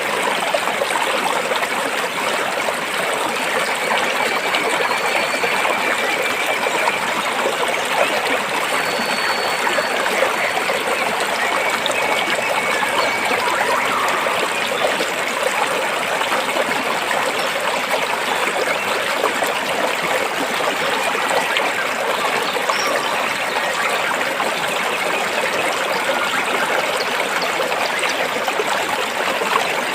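Stream water flowing steadily between rocks, an even, unbroken rush and trickle.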